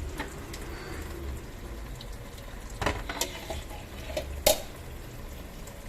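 Dishwashing at a sink: water sloshing with a few sharp clinks of dishes, the loudest about four and a half seconds in.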